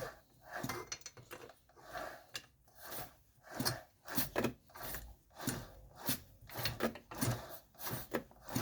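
Small-engine flywheel being turned over by hand again and again past its electronic ignition coil to test for spark: a run of short mechanical rattles, about one and a half a second.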